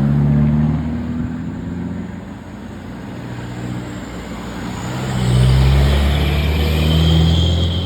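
Truck engine running, its note dipping in the middle and then swelling louder about five seconds in.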